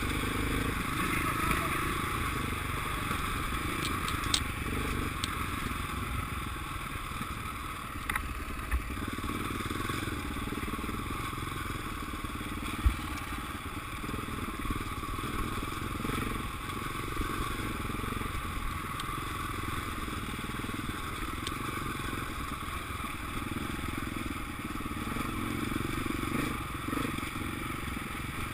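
Motocross motorcycles running, a steady blur of engine noise, with one sharp thump about halfway through.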